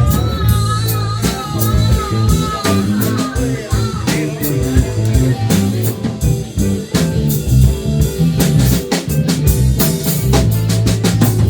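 A band jamming: electric guitar, bass and drum kit playing a bluesy groove with a steady beat.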